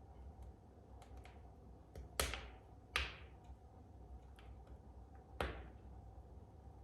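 Wood fire crackling in a fireplace: faint small ticks throughout, with three sharper pops about two, three and five and a half seconds in, each trailing off briefly.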